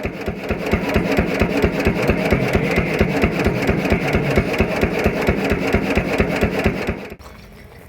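An engine running with a steady, even beat of about six pulses a second, then cutting off abruptly about seven seconds in.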